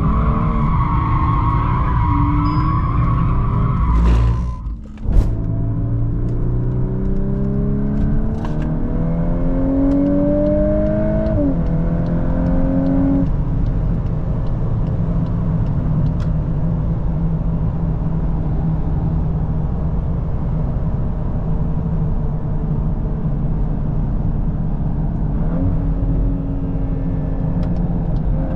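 VW Golf 8R's turbocharged four-cylinder with an Akrapovic exhaust. It opens with tyres squealing for a few seconds, then the engine pulls hard, its pitch climbing through gear changes before it settles into a steady cruise. It starts rising again near the end.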